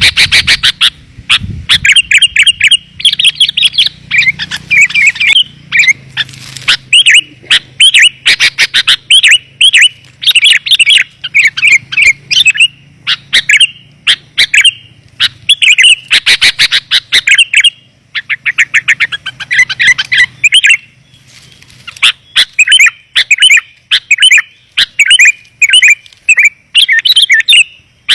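Sooty-headed bulbul (kutilang) calling in dense, rapid runs of bright chirping notes, with short pauses between bursts: a lure call of the kind used to draw wild bulbuls in.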